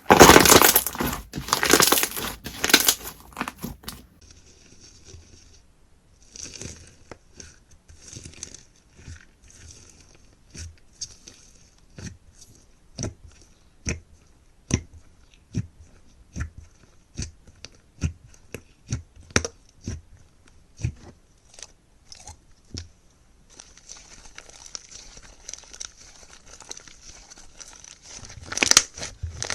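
Slime being squeezed and pressed by hand, crunching and crackling densely for the first few seconds. Then come separate sticky clicks and pops, about one or two a second, and near the end a soft hiss with small pops.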